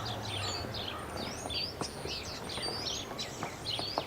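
A flock of small birds chirping and twittering outdoors, many short quick calls overlapping throughout. A low steady drone fades out about half a second in.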